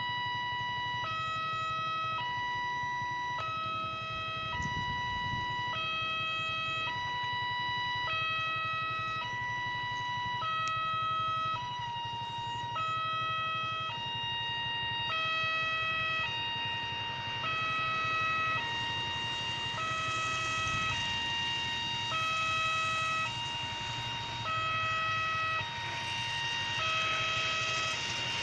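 Railway level-crossing warning alarm sounding while the barrier is down for an approaching train: two tones alternating evenly, each held about a second. A rushing noise builds over the last several seconds.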